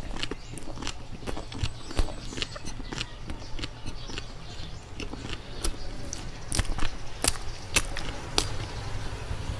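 Close-miked chewing of soft ube bread: a run of small, irregular mouth clicks, with a few louder ones in the second half.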